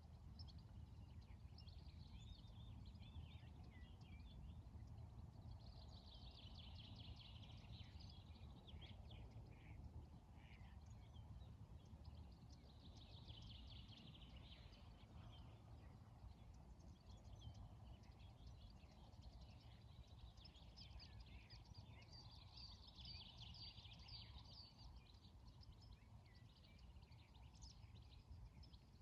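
Faint morning ambience: songbirds twittering in rapid, high chirping bouts that come every several seconds, over a low, steady rumble.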